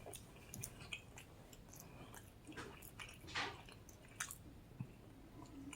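Close-miked chewing, with scattered small wet mouth clicks and smacks.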